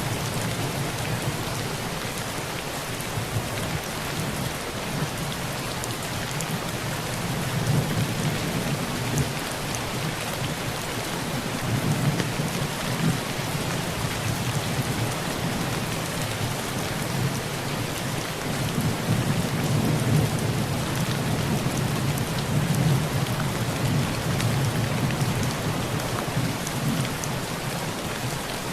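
Heavy rain pattering steadily on a tin roof, with low rolling thunder that swells and fades several times.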